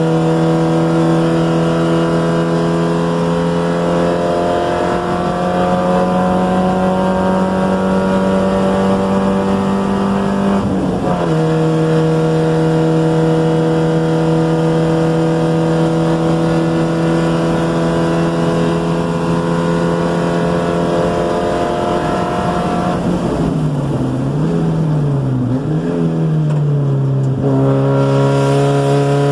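1990 NA Miata's 1.6-litre four-cylinder engine, heard from inside the car, pulling hard with revs climbing. There is one upshift about a third of the way in. Near the end the driver lifts for hard braking, and the revs rise and fall several times with the downshifts before it pulls out of the corner again.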